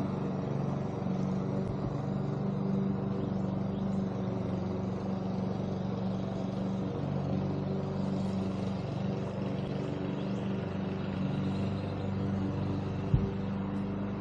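A steady low engine-like hum running throughout, with a single sharp click near the end.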